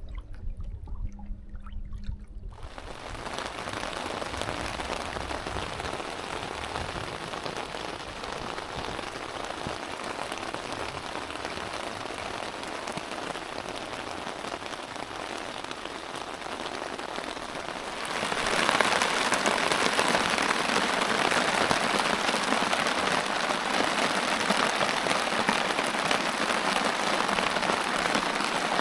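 Steady rain falling, starting about two and a half seconds in and growing heavier and louder about two-thirds of the way through.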